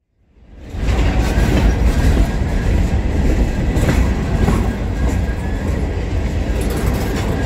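Diesel freight train running on the track: a low engine rumble with the noise of wheels on rails, fading in over the first second and then holding steady.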